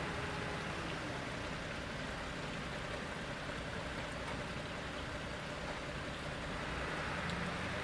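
Steady rushing noise of running machinery mixed with water, unchanging throughout.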